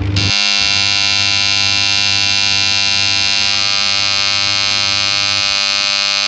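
A buzzer-like alarm tone, the kind a washing machine sounds at the end of its cycle, comes on abruptly and holds steady and loud without a break.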